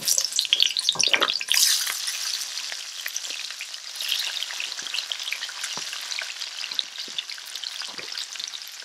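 Chopped onions, tomatoes and peppers dropping into very hot olive oil and frying, sizzling and crackling. The sizzle swells sharply about a second and a half in as the first load hits the oil, then settles into a steady crackling fry, with a few soft knocks as more vegetables fall in.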